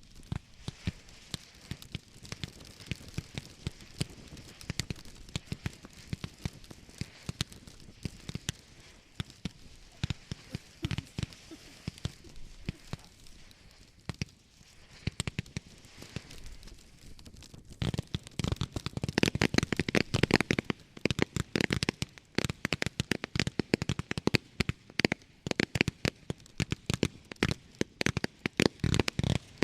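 Consumer fireworks (Category F2 cakes and batteries) firing in a continuous barrage of sharp bangs and crackling, turning much denser and louder about two-thirds of the way through as the finale builds.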